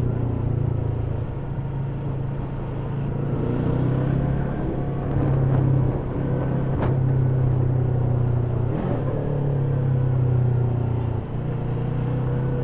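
Stock Yamaha YZF-R3's 321 cc parallel-twin engine running at fairly steady revs, a deep, even exhaust note through the factory exhaust. There is a single sharp click about two-thirds of the way through.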